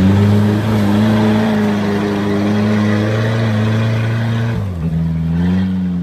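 First-generation Isuzu Trooper's engine running at high revs with a steady note, then the revs drop suddenly about four and a half seconds in and pick up slightly again near the end.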